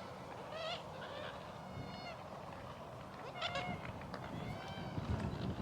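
Wild birds calling, a series of short pitched calls one after another, over a low rumble that grows louder in the second half.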